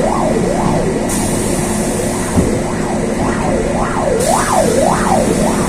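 An emergency vehicle's siren wails up and down about twice a second, growing louder in the second half, heard from inside a moving bus over the steady hum of its running gear.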